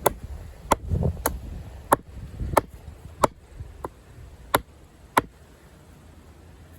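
Condor Heavy Duty Kukri's thick 1075 carbon-steel blade chopping into a log on a wooden chopping block: about nine sharp strikes roughly every two-thirds of a second, stopping a little after five seconds in. The blade is biting into the wood rather than bouncing off.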